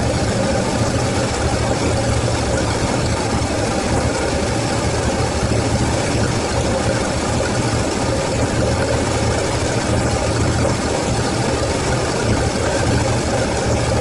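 Rebuilt Toyota 4A-GE four-cylinder engine on carburetors, running at a steady idle.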